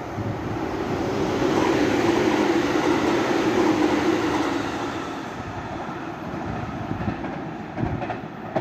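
Electric commuter train passing close by. Its rumble swells to a peak a couple of seconds in and then fades, with a few sharp knocks near the end.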